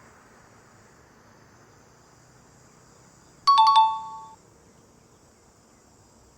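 Fishing bite alarm going off: a sudden loud ringing chime of a few quick strikes on two pitches, about three and a half seconds in, dying away within a second. It signals a fish taking the bait.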